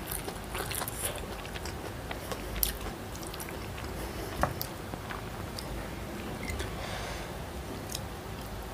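Close-miked chewing and wet mouth sounds of someone eating stir-fried instant noodles, with scattered sharp clicks and one stronger click about four seconds in as a metal fork works at momos on a wooden tray.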